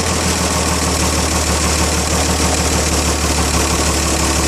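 A freshly rebuilt 1933 Chevrolet straight-six engine running at a steady idle. The owners judge its ignition timing a little too far advanced and mean to back it off.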